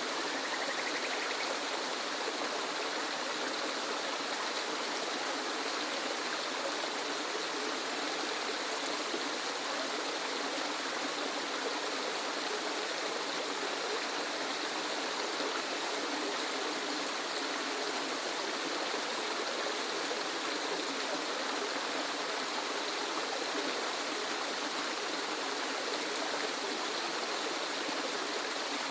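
Waterfall: a steady rush of falling water, an even hiss with little low rumble.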